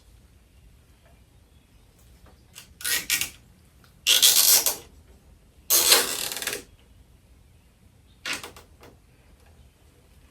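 Four short bursts of rustling and scraping from handling a Halloween animatronic prop's parts; the longest come about four and six seconds in.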